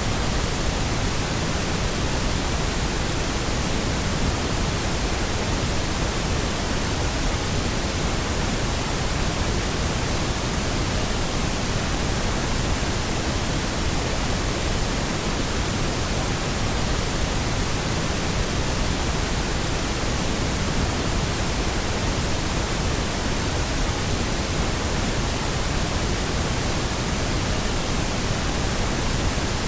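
Steady pink noise: an even, unchanging hiss across the whole range, with no breaks or changes.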